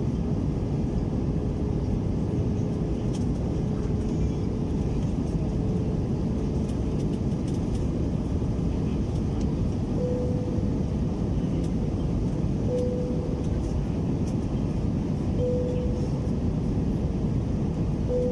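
Steady engine and air noise inside the cabin of an Airbus A321-200 airliner, a low, even rumble. A faint steady whine sounds for the first few seconds. In the second half come four short high tones about three seconds apart.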